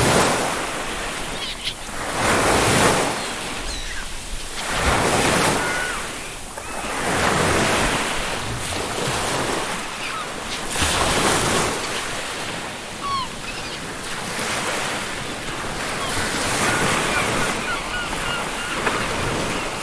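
Ocean surf breaking on a beach, one wave swelling and fading every two to three seconds, with faint gull calls now and then and a quick run of them near the end.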